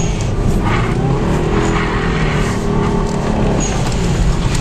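Subaru Legacy GT wagon's flat-four engine revving up and down under throttle while the car slides on snow, heard from inside the cabin.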